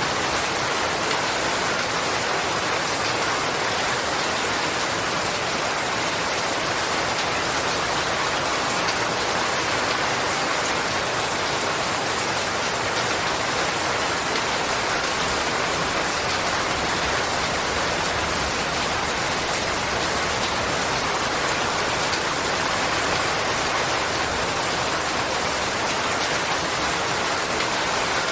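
Steady, even rainfall with no distinct drops or breaks.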